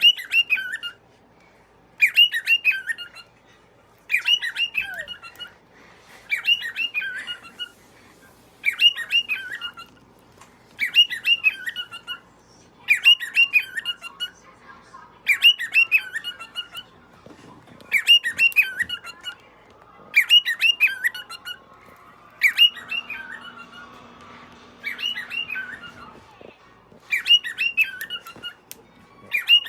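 Cockatiel whistling the same short phrase over and over, about once every two seconds, each phrase lasting about a second with quick up-and-down sweeps in pitch.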